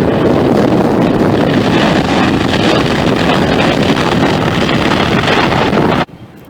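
Jet airliner engine noise, a loud steady rush, mixed with wind buffeting the microphone; it cuts off abruptly near the end.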